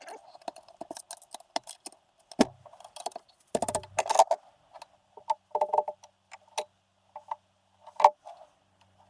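Irregular clicks, taps and knocks of hand tools and small metal engine parts being handled during an engine teardown, with a few sharper knocks standing out.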